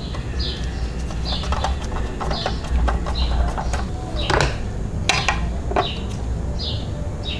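A bird chirping repeatedly, a short high chirp every second or so, over a steady low hum, with small clicks and taps from handling a die-cast model truck cab.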